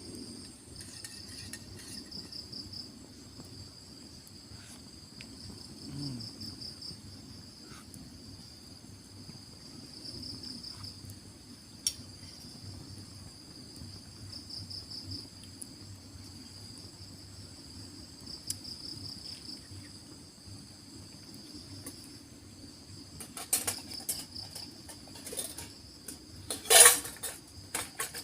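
Forest insects chirping in a steady high-pitched chorus, with pulsing trills that come and go every few seconds. Near the end, a run of sharp clinks and knocks, the loudest about a second before the end.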